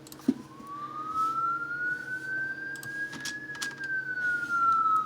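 Fire truck siren wailing: a single tone rising slowly for about three seconds, then starting to fall. A short knock comes just after the start.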